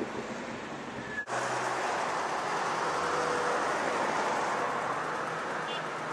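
Steady running noise of a heavy vehicle on the move. The sound changes abruptly about a second in and then stays fuller and louder.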